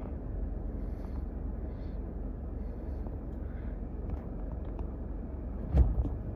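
Steady low rumbling noise, with a single loud thump near the end.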